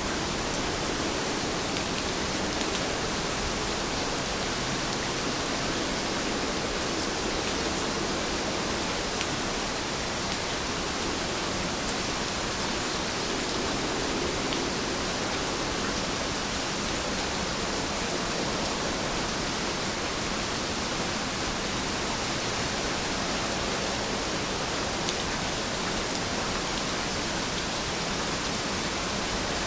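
Steady rain falling, an even hiss with occasional faint ticks.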